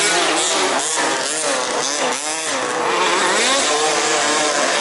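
Several 1/5-scale off-road RC cars' small two-stroke petrol engines revving up and down, their pitches rising and falling and overlapping as the cars race.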